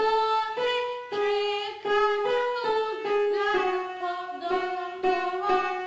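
Music: a high voice singing held notes, one after another, over light instrumental accompaniment.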